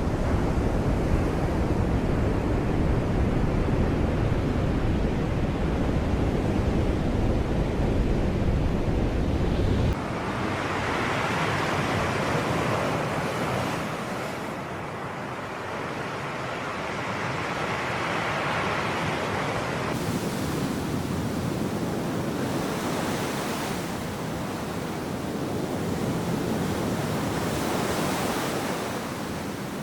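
Sea waves washing and breaking, swelling and ebbing, with wind rumbling on the microphone in the first stretch. The sound changes abruptly twice, about a third and two thirds of the way through, as if separate recordings were joined.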